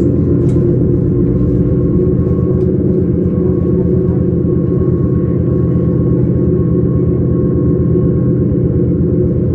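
S-Bahn train running: a steady, loud rumble with a constant low drone and a faint steady whine above it.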